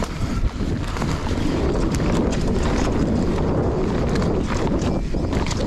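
Mountain bike running down a loose dirt trail: tyres crunching over dirt and stones, with frequent sharp clattering knocks from the bike over bumps, under steady wind rumble on the action camera's microphone.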